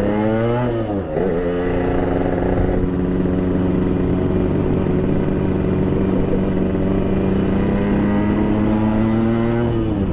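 Yamaha RX-King 135cc two-stroke single with an aftermarket PDK exhaust, ridden under hard acceleration. The revs climb, drop at a gear change about a second in, then rise slowly through a long pull before dropping again near the end.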